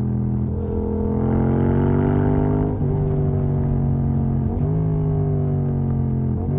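Yamaha MT-07 parallel-twin engine, exhaust run without its dB killer, under way. The revs climb for about two seconds, then the pitch steps abruptly at gear changes, three times.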